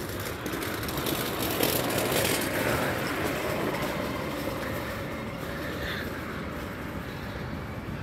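A passing vehicle: a steady rush of traffic noise that swells about two seconds in, then fades off slowly.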